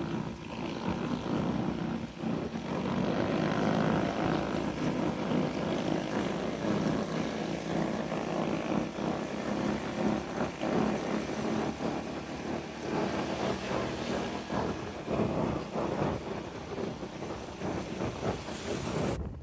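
Small motorcycle engine running steadily under way, its pitch wavering a little over a rushing noise, cutting off abruptly near the end.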